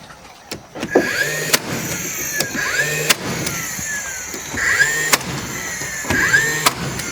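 A small electric power-tool motor whirring up, holding and winding down about four times, with sharp clicks and knocks between the runs.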